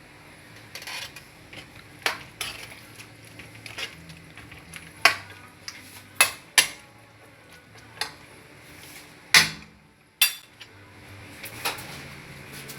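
Metal cooking utensil clanking and scraping against a pan while vegetables are stirred in for pancit, with irregular sharp knocks a few seconds apart.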